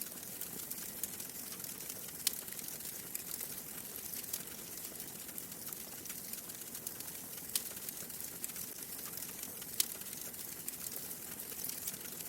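Wood fire crackling in a fireplace: a steady hiss of small crackles with a few louder pops scattered through, the sharpest near the end.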